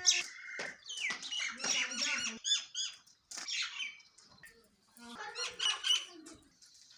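Sparrows chirping in quick overlapping bursts of short calls, busiest in the first few seconds, with a short lull and another burst about five seconds in.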